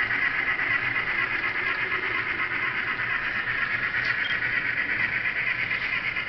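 Sound decoder in an N scale Union Pacific steam locomotive playing a steady run of exhaust chuffs through its tiny speaker as the engine works a train uphill.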